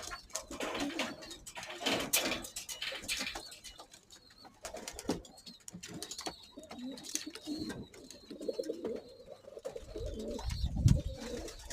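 Homing pigeons cooing, with a run of short sharp clattering sounds in the first few seconds.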